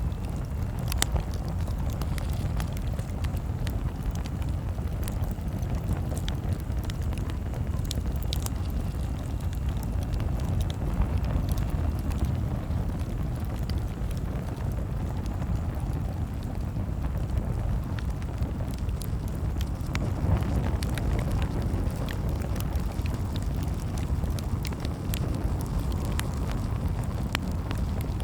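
Campfire crackling: irregular sharp pops and snaps scattered over a steady low rumble.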